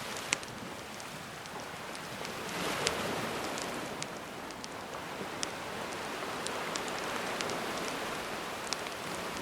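Gentle sea waves washing in a steady hiss that swells about two and a half seconds in, with a wood campfire crackling over it in sharp, scattered pops.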